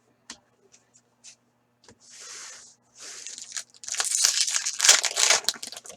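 A foil trading-card pack being torn open and its wrapper crinkled, with a few light clicks first, then a rising crackle of tearing and crumpling in the second half.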